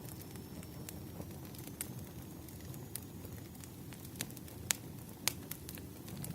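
Wood fire burning: irregular sharp crackles and pops over a steady low rush of flames, with a couple of louder pops near the end.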